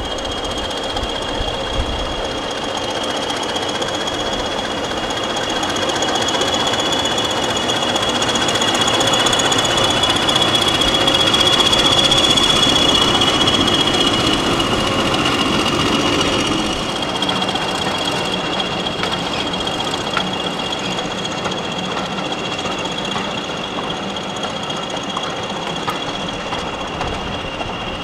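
Diesel-hauled train passing, its engine and wheel noise swelling to a peak about twelve seconds in and easing off after about sixteen seconds. A steady high-pitched squeal from the wheels runs under it.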